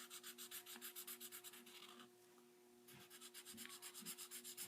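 Faint scratching of a Prismacolor Premier felt-tip marker scribbling quickly back and forth on paper to fill in a shape, about eight strokes a second. The strokes stop for about a second in the middle, then resume.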